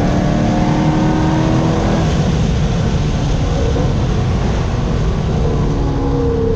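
Chevrolet Corvette C6 Z06's 7.0-litre LS7 V8 pulling hard at high revs on a track lap, the pitch rising over the first two seconds, holding, then easing down near the end as the car lifts off.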